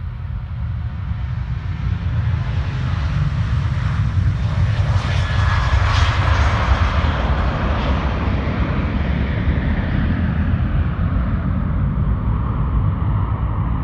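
Boeing 737-800 jet airliner's twin CFM56 turbofan engines at takeoff thrust, over a steady low rumble. The higher jet noise swells to its loudest about six seconds in as the aircraft passes, then fades.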